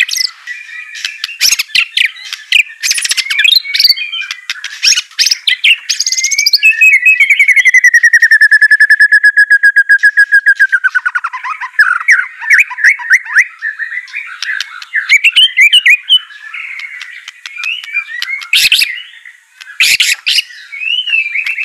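White-rumped shama singing a loud, varied song of quick whistled phrases and sharp clicking notes. In the middle it holds a long, rapid trill on one pitch for about four seconds, which drops in pitch as it ends.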